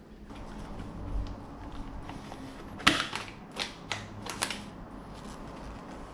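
Hand work on parts: a few sharp clicks and clacks, the loudest about three seconds in and several more close after it, over a low rumble.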